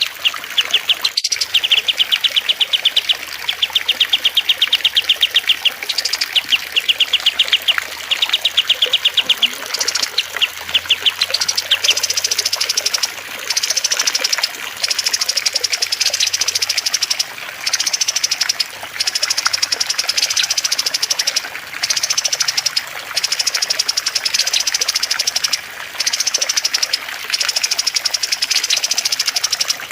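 Recorded songbird song from a masteran mix of cililin, kastem and lovebird voices over trickling water. Fast repeated trills come in bursts of about two seconds at first. From about ten seconds in, higher phrases of about a second and a half follow one another with short breaks.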